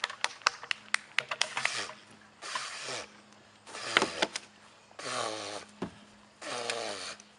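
A cluster of sharp clicks and knocks in the first two seconds, then a person gasping in short, noisy, partly voiced breaths about once a second, the reaction to being doused with ice water.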